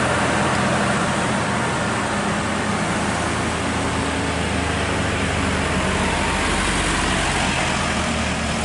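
Heavily loaded Volvo FH16 550 truck's 16-litre inline-six diesel working hard up a steep grade at crawling speed: a steady, even engine drone with road and wind noise.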